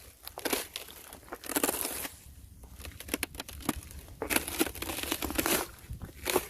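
Thin, freshly frozen ice crunching and crackling as it is broken, in irregular crunches, the longest lasting over a second a little past halfway.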